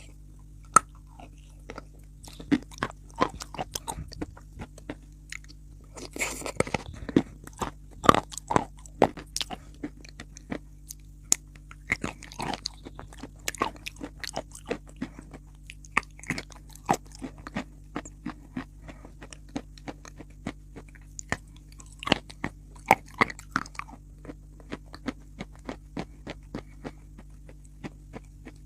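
Someone biting and chewing eating chalk close to the microphone: irregular sharp crunches and crackles, denser between about six and nine seconds in, over a faint steady low hum.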